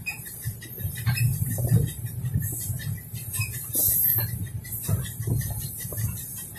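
Shark ballast plough brake van rolling along behind the train: a low rumble from the wheels on the track, with rattles, clinks and squeaks from the van's fittings and bodywork.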